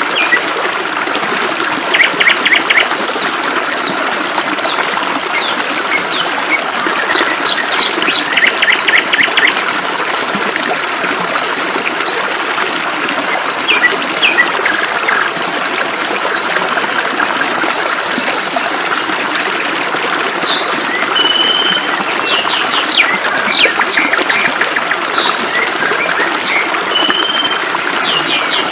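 Several small birds chirping, whistling and giving fast rattling trills over the steady rush of flowing water. The trills come about 2 seconds and about 8 seconds in, with scattered chirps and short whistles throughout.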